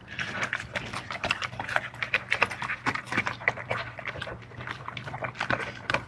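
A dog eating noisily: a rapid, irregular run of chewing and smacking clicks, several a second.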